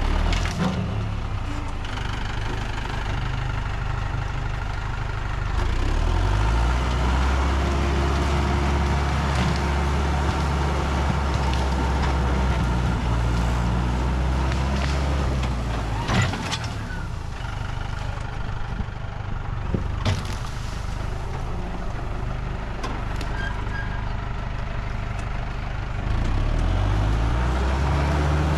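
Tractor engine running steadily, with its pitch and loudness rising under load about six seconds in and again near the end. A few sharp knocks or clanks come through around the middle.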